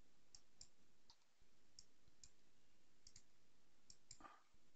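Faint, scattered clicks of a computer keyboard and mouse, about ten in all, as values are typed into a software dialog, over near-silent room tone.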